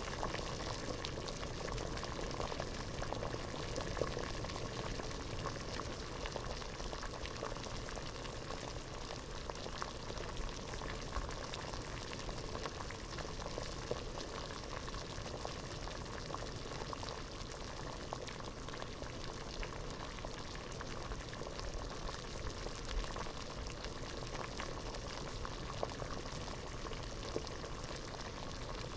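Water boiling hard in a pot, a steady dense bubbling with many small pops and crackles.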